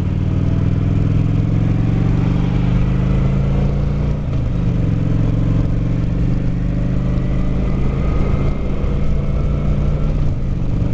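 Honda Shadow Aero 750 V-twin motorcycle engine pulling hard as the bike gets up to highway speed, with wind rush. Its pitch climbs, then drops about four seconds in and again near the end, as at upshifts.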